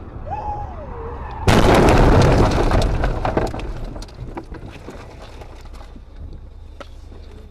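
Vehicle collision: a sudden loud crash about one and a half seconds in, a crunching noise that fades over the next couple of seconds, then scattered clicks and rattles of debris.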